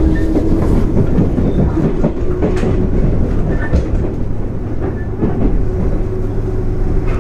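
A JR 205 series 0 electric multiple unit running along the track: a steady heavy rumble with a faint steady hum and scattered clicks of the wheels over rail joints.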